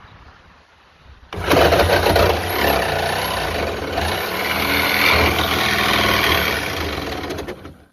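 Hand-held power cutting tool running under load, cutting through the sheet-metal roof of a truck cab. It starts abruptly a little over a second in, holds a steady fast stroking noise as the blade works through the metal, and stops just before the end.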